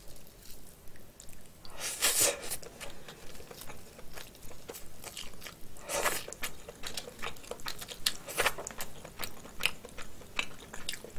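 Close-miked chewing of boiled red snow crab meat: a steady run of wet mouth clicks and smacks, with two louder, longer wet sounds about two and six seconds in.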